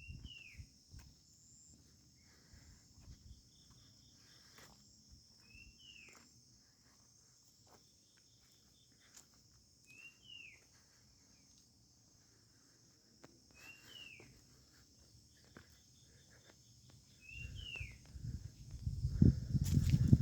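A bird repeating a short, falling call about every four seconds over a steady high insect drone. In the last few seconds, wind buffets the microphone loudly.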